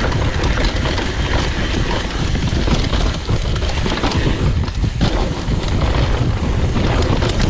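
Downhill mountain bike riding over a dirt trail: wind buffeting the microphone and tyres rolling, with many small knocks and rattles from the bike as it passes over bumps.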